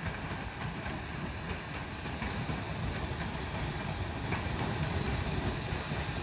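A train running along the track: a steady rumble with faint clicks from the wheels, slowly growing louder.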